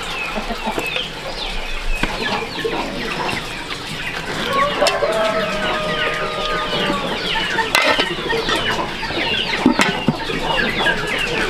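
Chickens clucking and cheeping, many short falling calls overlapping throughout, with a few sharp knocks.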